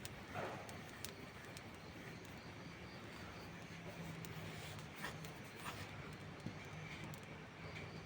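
Steady rain hiss with a few sharp pops and crackles from a wood fire burning under shelter.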